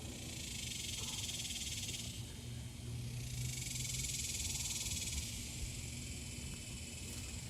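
Evening insect chorus: a dense, high, pulsing trill that swells twice and eases, over a faint low hum.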